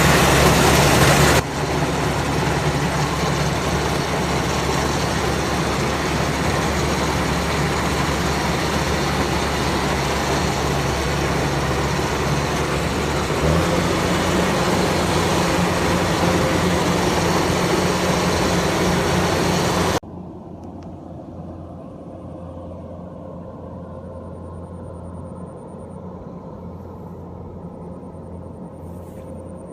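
Farm machine's engine running steadily under a loud mechanical noise; the engine note steps up a little before halfway. About two-thirds in it cuts suddenly to a quieter steady engine hum.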